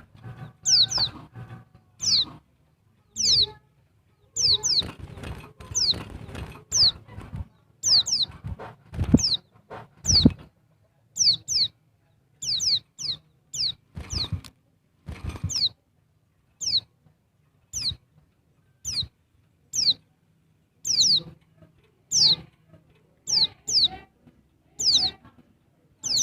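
Female pleci dakbal (white-eye) calling: short, high notes that slide down in pitch, repeated about once or twice a second and often in quick pairs. Low rustling and a few knocks sound among the calls in the first half.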